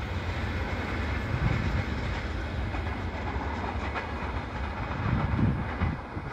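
Passenger train carriages rolling away along the track, a steady low rumble of wheels on rail.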